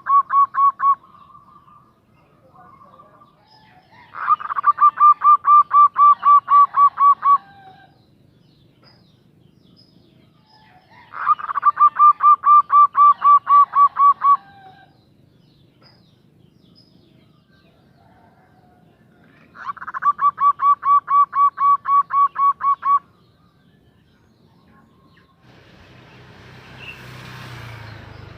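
Female zebra dove (perkutut) calling: bouts of rapid, evenly pulsed cooing notes, about four a second, each bout lasting about three seconds. There are three full bouts, several seconds apart. A hissing noise builds up near the end.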